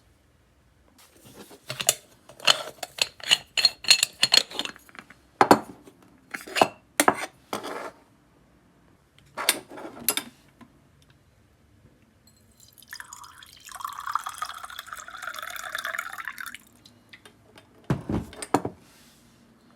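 Metal and glass clinks and knocks while handling a stovetop moka pot, then liquid pouring for about three seconds, and a single knock near the end.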